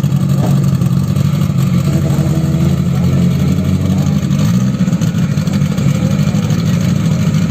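Drag-racing car engine idling, a loud, steady low note.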